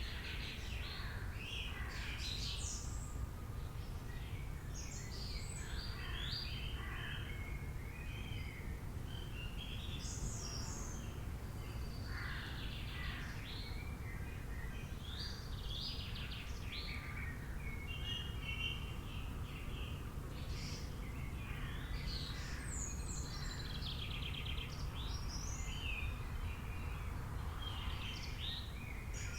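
Several birds chirping and calling, many short overlapping chirps and trills, over a steady low background rumble.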